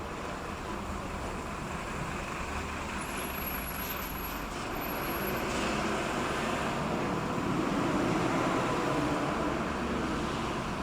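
Steady engine rumble that swells to its loudest about eight seconds in and then eases off, with a faint, thin, wavering high whistle about three to five seconds in.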